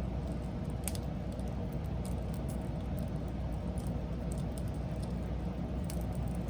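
Wood fire burning: a steady low rumble of flames with scattered sharp crackles and pops, the sharpest about a second in and near the end.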